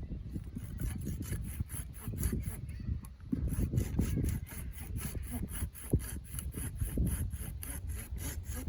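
Hand saw cutting wood in quick, even strokes, about four to five a second, over a low rumble.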